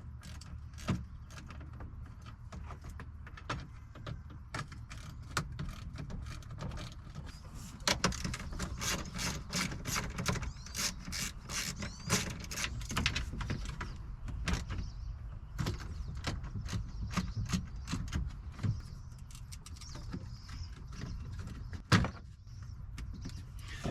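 Hand tools working on bolts: runs of quick ratcheting clicks from a ratchet wrench, with scattered tool knocks and one sharp knock near the end.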